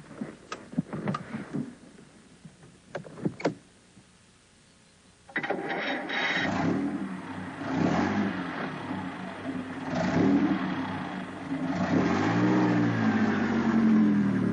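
Supercharged 4½-litre 'Blower' Bentley racing car's four-cylinder engine starting: a few sharp clicks and knocks, then the engine catches suddenly about five seconds in and is revved, its pitch rising and falling several times.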